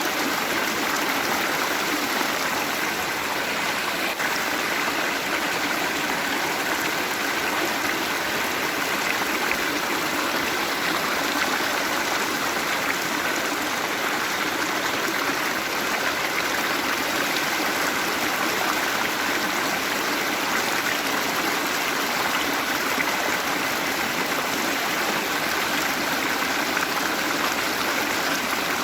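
Waterfall: a steady, even rush of falling and running water.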